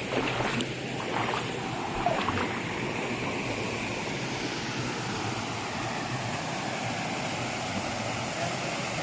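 Shallow stream water flowing steadily, with a few splashes in the first couple of seconds as feet wade into it.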